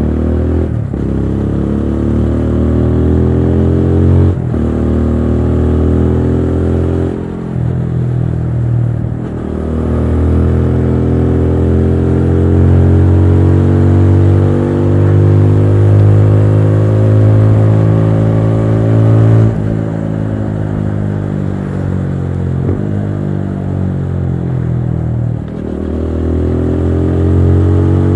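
TVS Apache RTR 200 4V's single-cylinder engine under way. Its pitch climbs under acceleration and drops sharply at several gear changes, with one long climb in the middle. The pitch then falls away and rises again near the end.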